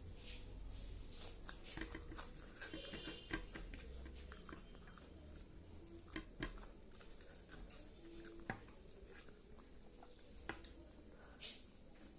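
A person chewing and eating chicken and rice, close to the microphone: faint chewing with scattered small clicks and smacks of the mouth.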